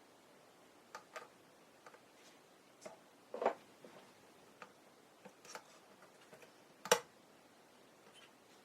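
Sparse, irregular light clicks and taps from plastic model-kit parts and small hand tools being handled at a workbench. Two louder clicks come about three and a half and seven seconds in.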